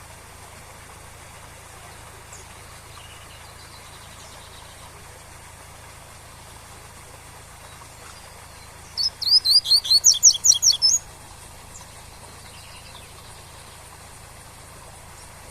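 A coleiro (double-collared seedeater) sings one fast tui-tui phrase of about a dozen quick rising notes lasting about two seconds, over a steady rush of waterfall noise. Fainter short chirps come before and after it.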